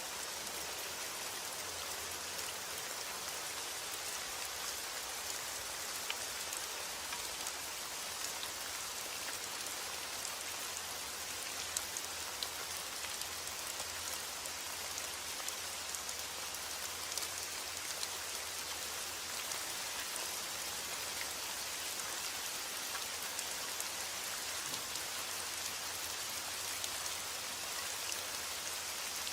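Steady rain with many small drops ticking on a surface, an even hiss with scattered individual drop hits.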